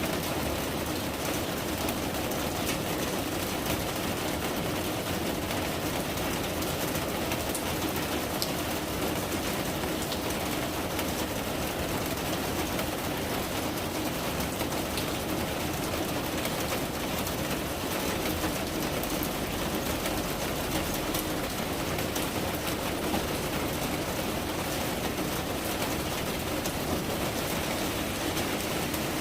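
Steady rain falling: an even, unbroken hiss with fine ticks of individual drops.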